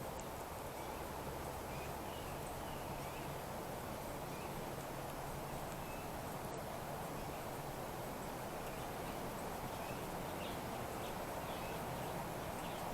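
Steady outdoor background hiss with faint, short bird chirps scattered throughout.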